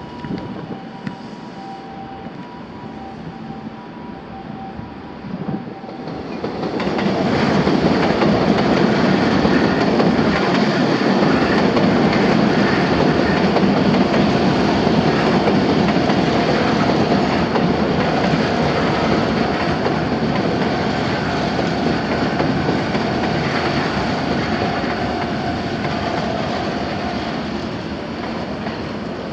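Electric commuter train running on the rails through the station: a rumble of wheels and motors that swells about six seconds in, stays loud, and eases off a little near the end.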